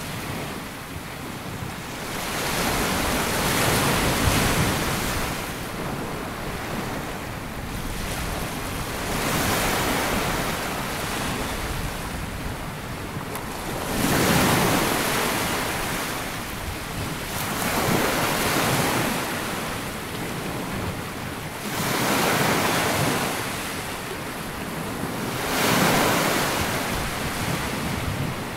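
Small sea waves breaking and washing up a sandy beach, a surge of surf every few seconds followed by the hiss of the backwash, with low wind rumble on the microphone.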